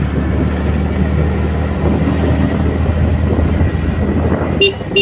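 TVS Ntorq scooter's single-cylinder engine running steadily while riding, with rushing wind. Near the end come three short, quick beeps.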